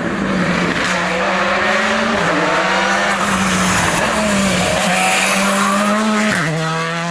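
Rally car engine under hard acceleration. Its pitch climbs steadily in each gear, then drops sharply at upshifts about two, four and six seconds in.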